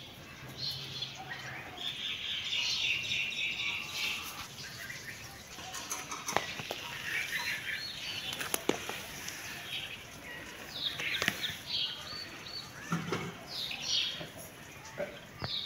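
Small birds chirping and twittering, with rustling and a few sharp taps.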